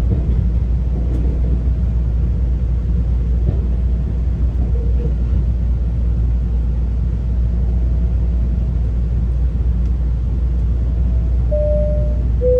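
GO Transit bilevel passenger coach rolling on the rails, heard from inside: a steady low rumble with faint thin whining tones, and a short, brighter whine near the end as the train pulls into a station.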